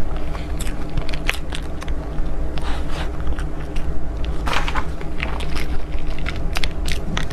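Close-miked ASMR eating of desserts: irregular crisp biting and chewing clicks and crackles, over a steady low hum.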